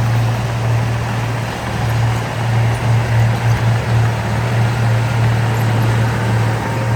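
Heavy diesel engine of earthmoving machinery running steadily with a low drone, its loudness wavering briefly a few seconds in as the load shifts.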